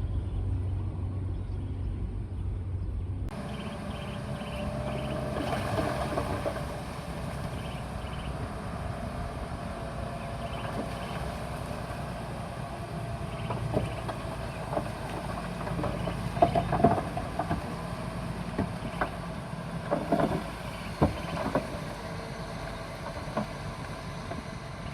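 Bulldozer diesel engine running steadily. The sound changes abruptly about three seconds in. Sharp clanks and knocks come now and then in the second half.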